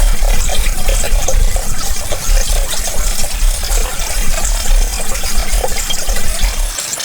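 Water running and splashing, which drops off sharply near the end.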